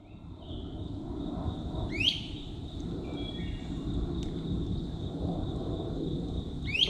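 Forest ambience: a bird gives a quick rising call twice, about five seconds apart, with a few short chirps between. Underneath are a steady high thin tone and a low rumble.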